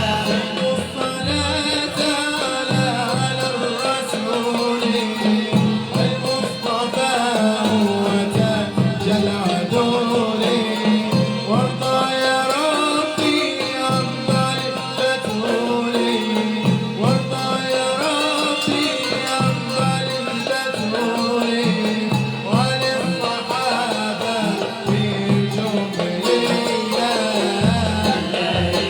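Malouf ensemble performing: singing with instrumental accompaniment and drums, playing continuously.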